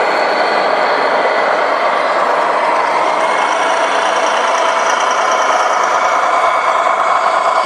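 1:14-scale radio-controlled model truck running: a steady mechanical whir with a thin, even whine above it.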